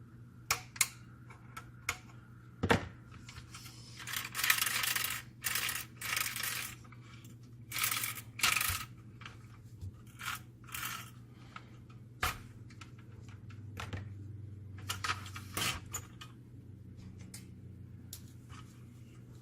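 Fuser parts being handled during disassembly: sharp metallic clicks and clinks, with several short bursts of scraping and rubbing. A steady low hum runs underneath.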